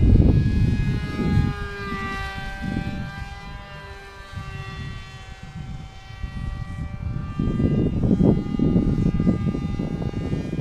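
RC foam model plane's motor and propeller whining in flight, the pitch shifting as it passes about two seconds in. Gusts of low wind rumble on the microphone are loudest at the start and come back from about seven seconds in.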